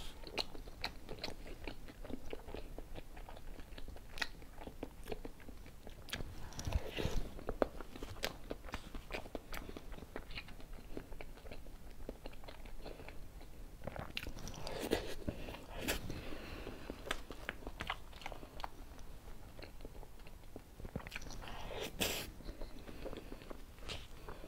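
Close-miked eating sounds of soft whipped-cream cake: wet chewing, lip smacks and small mouth clicks throughout, with three louder spells about seven, fifteen and twenty-two seconds in.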